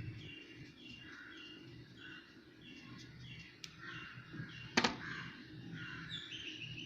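A bird in the background calling over and over in short chirps, about two a second. There is a sharp click just before five seconds in.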